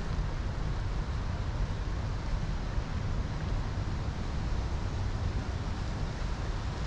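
Steady low rumble of wind buffeting the microphone of a moving bicycle, over a haze of city street noise.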